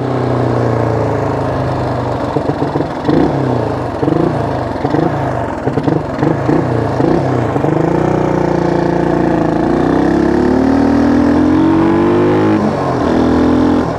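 1974 Honda XL175's single-cylinder four-stroke engine running under a rider: revving up and down in quick swings for a few seconds, then pulling with a long rising pitch that dips briefly near the end.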